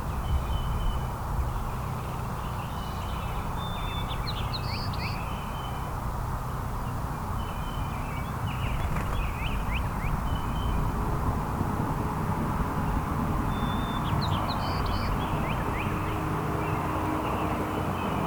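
Small songbirds chirping over a steady low background rumble, with two short bursts of quick calls and pitch sweeps, one near the start and one about two-thirds through.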